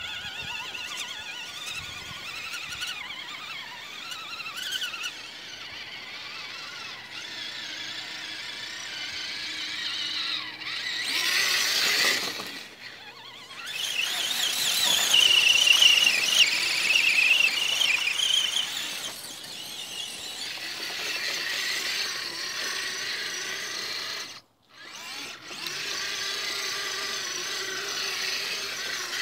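Electric motors of radio-controlled off-road trucks whining, the high-pitched whine rising and falling with the throttle and loudest about halfway through. It cuts out briefly near the end.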